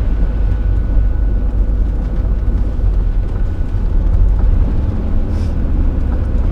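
Hymer motorhome driving on a snowy road: steady low engine and road rumble.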